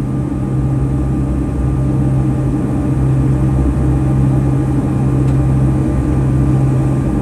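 Boeing 757-200 cabin noise inside the cabin while climbing after takeoff: a steady drone of engines and airflow with a strong low hum.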